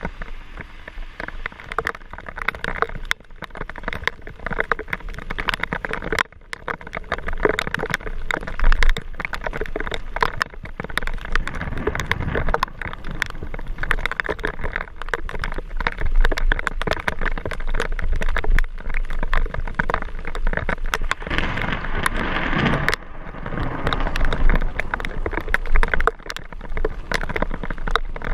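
Heavy rain pattering on a bike-mounted GoPro in its housing, a dense stream of fine drop clicks over a steady hiss of a bicycle riding on a wet road, with a low rumble of wind on the camera.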